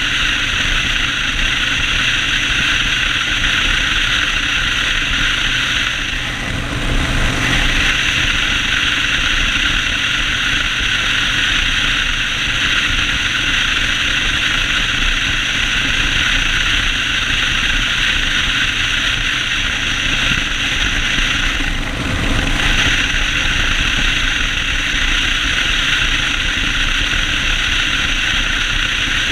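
Yamaha Road Star 1600's air-cooled V-twin engine running under way on a ride, a loud steady drone. The sound briefly changes twice, about seven seconds in and again about twenty-two seconds in.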